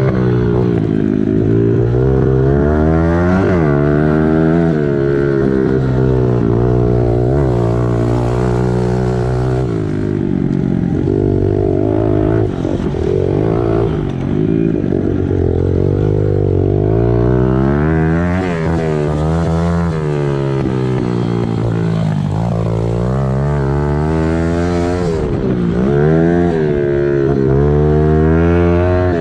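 Small four-stroke pit bike engine running hard, its revs rising and falling every second or two as it repeatedly accelerates and eases off.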